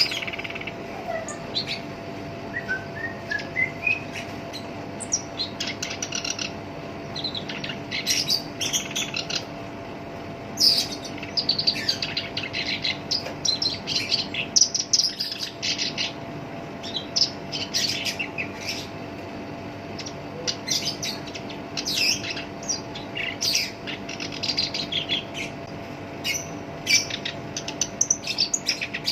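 Black-browed reed warbler singing almost without pause: rapid runs of harsh, scratchy notes mixed with a brief series of rising whistles.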